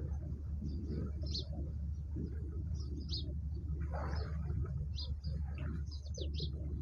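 Small birds chirping in short, scattered high calls, several a second at times, over a steady low rumble.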